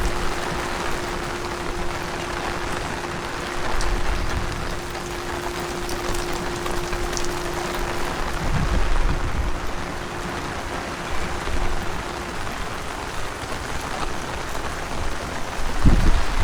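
Heavy rain falling steadily, with low rumbling gusts of wind hitting the microphone a few times. A faint steady hum runs underneath and stops about twelve seconds in.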